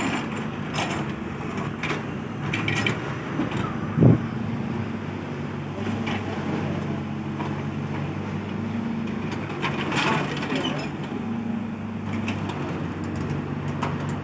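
Excavator's diesel engine running with a steady hum that shifts in pitch as it works, with scattered clanks and scrapes and one heavy thump about four seconds in.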